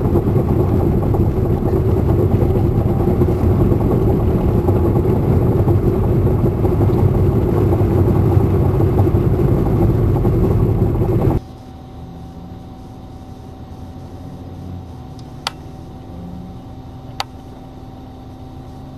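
Car interior noise while driving: a steady rumble of engine and road noise that drops abruptly about two-thirds of the way through to a much quieter steady hum, with two sharp clicks near the end.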